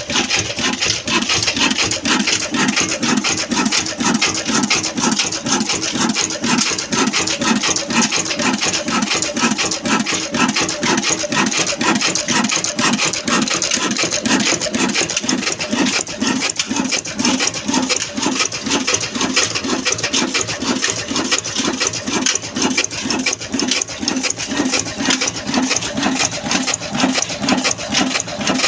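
Old Ruston diesel engine running steadily, with a fast, even mechanical clatter.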